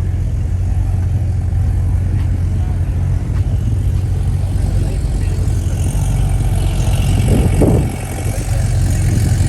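Car engine idling close by with a deep, steady rumble, swelling briefly about seven seconds in.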